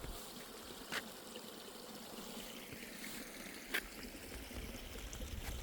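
Natural spring water running in a steady trickle, with two faint clicks.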